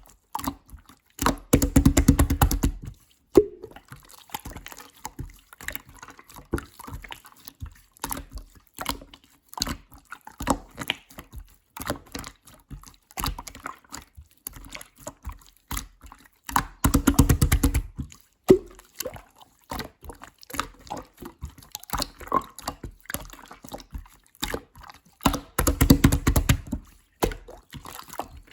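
Clear slime being squished, pressed and stretched by hand, making wet clicking and popping sounds. Three times it breaks into louder, rapid crackling for a second or two.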